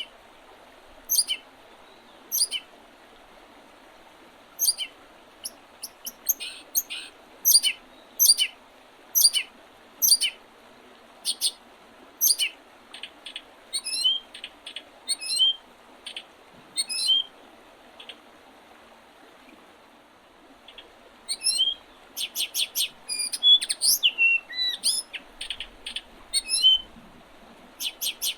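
Small songbirds chirping and calling in spring, short sharp notes about once a second, with a denser flurry of calls near the end. Under them runs a steady rush of flowing river water.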